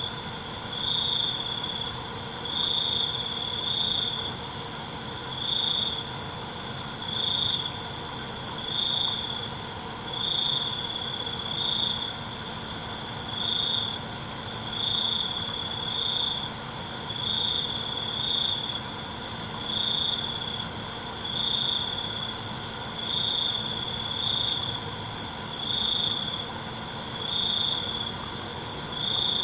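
Night chorus of crickets: one loud cricket chirping at a single steady pitch in short bursts about every two seconds, with a fainter pulsing trill above it and a steady high drone of other insects underneath.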